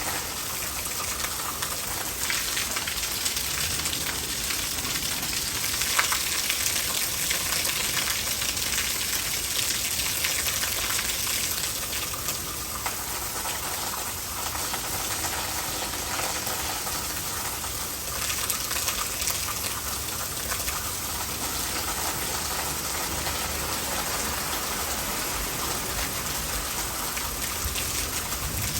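Steady heavy rain pattering on surfaces, with rainwater gushing and running into a gutter.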